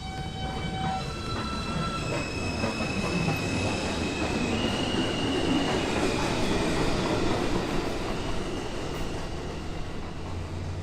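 Subway train pulling out of the station, its motors whining in rising steps as it picks up speed over a rolling rumble that swells, then fades as it leaves.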